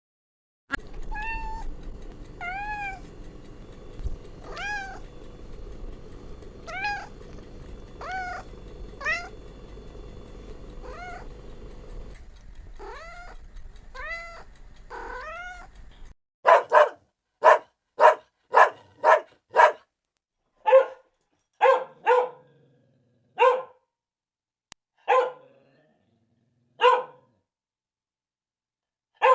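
A kitten meowing again and again in short rising-and-falling mews over a steady background hum. About halfway through the hum stops and a run of quick, sharp yaps starts, most likely a small dog barking. The yaps come fast at first and then spread out.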